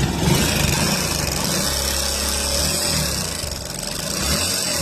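Hero Honda Passion Plus single-cylinder four-stroke engine running steadily just after being started. It makes a mechanical noise that the mechanic puts down to its worn top end: the head cam and rockers, left in with used parts for now.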